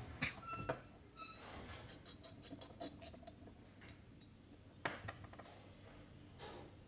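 Small metal carburetor parts being handled: scattered light clicks and taps, with a few short ringing clinks about a second in and a sharper click near five seconds.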